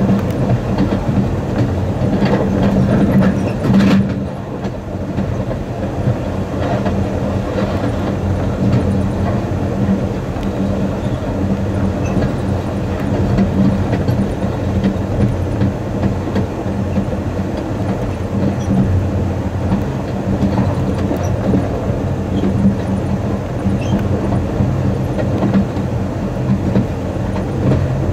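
Amtrak Coast Starlight passenger train running along the track, a steady low rumble of wheels on rails. A few sharper wheel clicks come a few seconds in.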